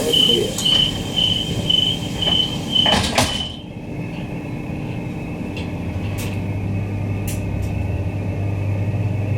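Queensland Rail EMU door warning beeps sounding at a fast steady pulse, then the doors shutting with a knock about three seconds in and the beeping stopping. A few seconds later the ASEA traction equipment starts a low hum, with faint rising whines as the train begins to pull away.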